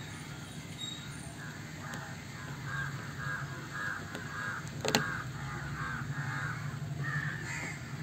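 A bird calling in a long run of short, harsh repeated notes, about three a second, over a steady low hum, with one sharp click about five seconds in.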